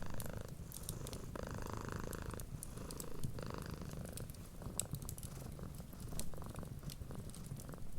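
Cat purring steadily up close, the purr changing with each breath in and out, with scattered small crackles and pops of a wood fire.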